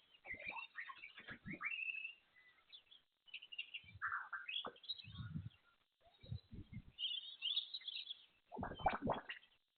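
Birds chirping in irregular short calls, with a few low thumps mixed in, the loudest near the end.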